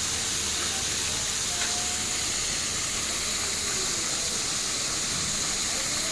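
Steady hiss of water spraying from a pressurized water pipe.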